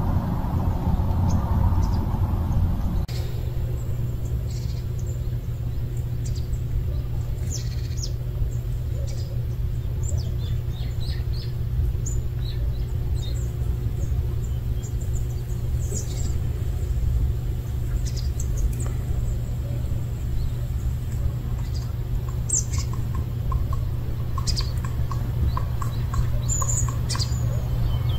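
Small birds chirping outdoors in short, scattered high calls, over a steady low rumble.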